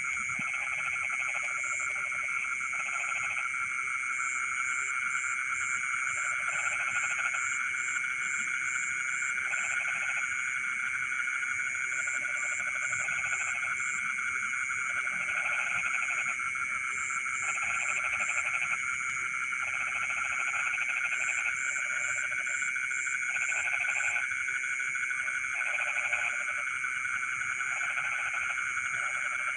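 Frogs calling in a rice field: short pulsed croaks repeat every second or two over a steady high-pitched chorus, with runs of rapid high chirps now and then.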